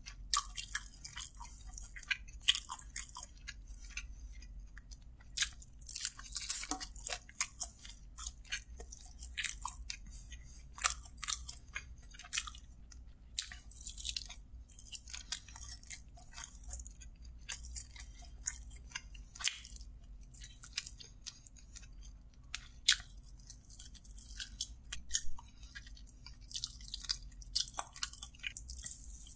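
Close-up chewing and biting as a man eats meat off spicy chicken drumsticks: many short, sharp mouth clicks and smacks in an irregular run.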